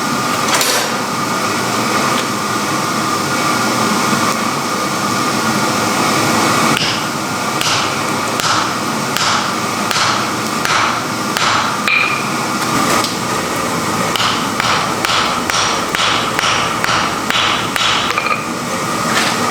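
Hammer blows on hot iron at the anvil: first spaced strikes about every half second, then a faster run of about three a second from midway on. A steady hiss with a faint whine runs beneath.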